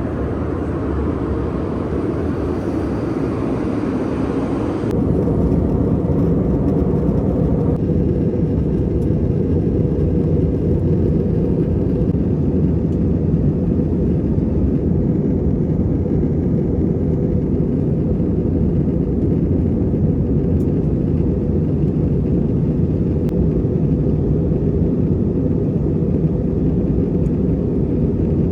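Steady in-flight cabin noise of an Airbus A321: engine and airflow rumble. About five seconds in the sound shifts: the hiss above drops away and the low rumble grows a little louder.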